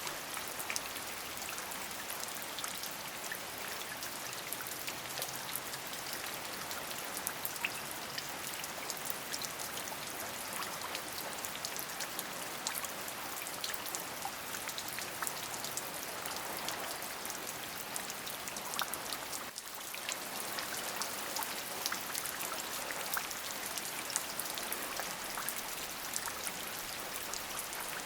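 Steady rain, a dense even hiss with many separate drop clicks, dipping briefly about two-thirds of the way through.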